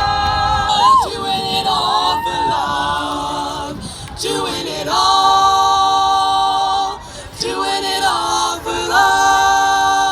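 A cappella vocal ensemble of mixed voices singing a series of long sustained chords, with short breaks between them.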